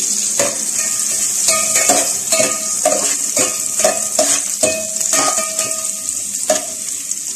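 Chopped garlic sizzling in melted butter and olive oil in a metal pan, with a steady high hiss. A spoon stirring it scrapes and knocks against the pan about twice a second, each knock ringing briefly.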